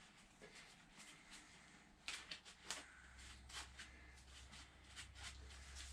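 Near silence with faint clicks and light knocks of small metal engine parts being handled, starting about two seconds in.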